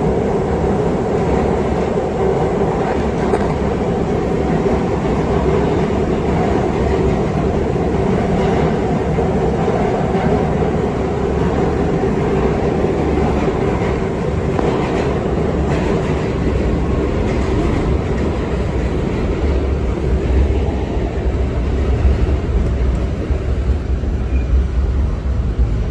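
R68 subway train running on the rails: a continuous rumble of wheels on track with a steady hum that fades about halfway through, and the low rumble growing heavier toward the end.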